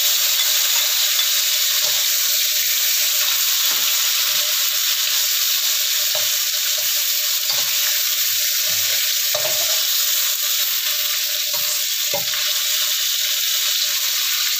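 Beef, tempeh and boiled eggs sizzling steadily in hot oil in a wok. A metal spatula knocks and scrapes now and then as the pieces are turned.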